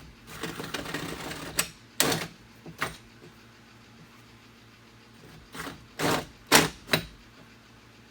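Hand-tool work on a car door: a rough rasping stretch of about a second early on, then a scatter of sharp knocks and clatters, two near the start and four in the second half.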